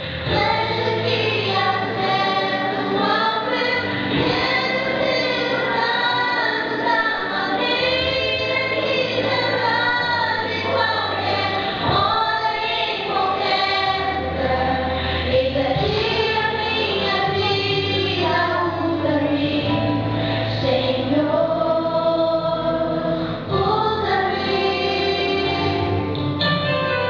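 Two women singing a gospel song together over an instrumental accompaniment.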